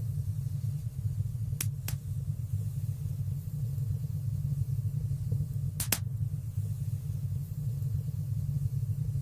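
Wood fire burning in a stone fireplace: a steady low rumble with a few sharp crackling pops, two close together a little under two seconds in and one about six seconds in.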